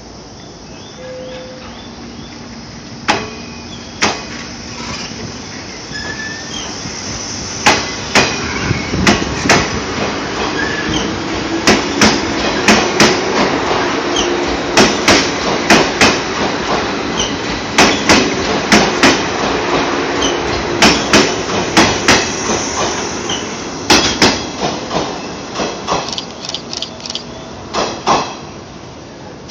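Train rolling past out of the station, its wheels clacking over rail joints in quick pairs and groups over a rising and then fading rumble.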